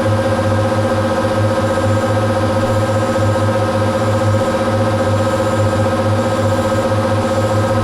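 Machine tool's electric motor and spindle running steadily at speed, a constant whine over a low hum.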